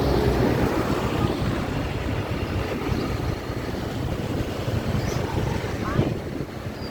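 Bird market ambience: a steady low rumble of traffic and wind on the microphone, with a few faint short bird chirps in the second half.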